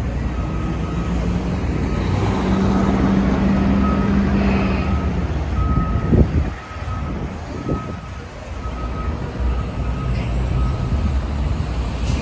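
A truck's reversing alarm beeping at an even pace, about one beep every two-thirds of a second, stopping a couple of seconds before the end. Under it runs the hum of a large engine and the rumble of city traffic.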